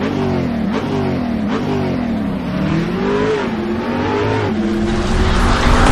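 A car engine revving up and down repeatedly, its pitch rising and falling several times.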